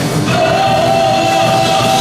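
Live church music with singing, a full band sound with drums and keyboard. A long high note is held from about a third of a second in.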